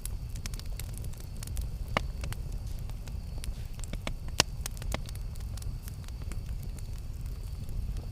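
Campfire crackling: a low steady rumble of flame under irregular sharp pops and snaps, two of them louder, about two seconds in and a little after four seconds.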